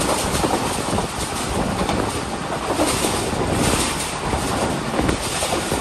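Passenger train running at speed, heard from aboard: a steady rumble of wheels on the rails with wind rushing past the microphone and faint irregular knocks from the track.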